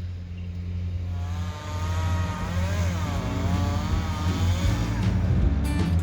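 Tree-work machinery: a steady low engine hum, joined about a second in by a chainsaw running, its pitch rising and falling as it works.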